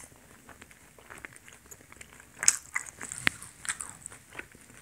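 A person chewing and biting a mouthful of donut close to the microphone, with scattered short mouth clicks, the loudest about two and a half and three and a quarter seconds in.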